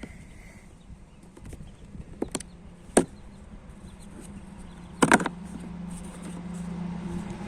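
A few sharp knocks, then about five seconds in a car engine starts with a loud burst and settles into a steady idle.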